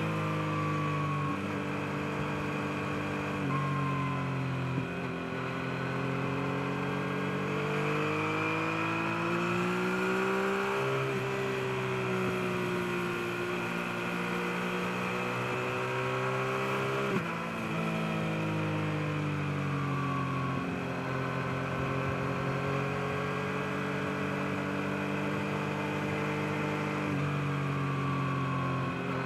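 Yamaha MT-09's inline three-cylinder engine under way, its pitch rising and falling with the throttle over the run. The note breaks off sharply twice, near five seconds and again past the middle, as the gears change.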